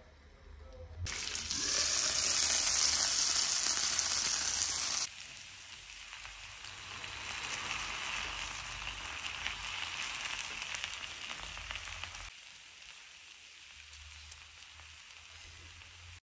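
Chicken pieces sizzling in hot oil and masala in a frying pan. The sizzle is loudest from about a second in until about five seconds, then settles to a steady, lighter sizzle and drops further near the end.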